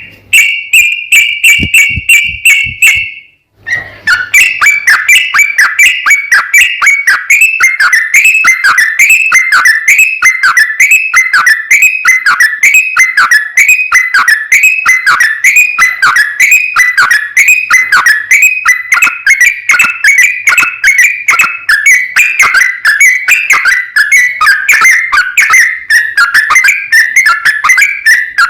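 Yellow-vented bulbul (trucukan) singing a rapid, unbroken run of chattering whistled notes, several a second, in the 'ropel' style. The song drops out for a moment about three seconds in, then resumes.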